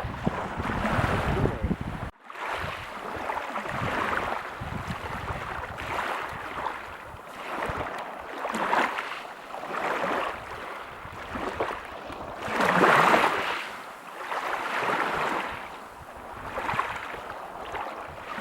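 Surf washing on a beach: a rushing noise of breaking water that swells and fades about every two seconds, with the biggest surge a little past the middle. The sound drops out briefly and suddenly about two seconds in.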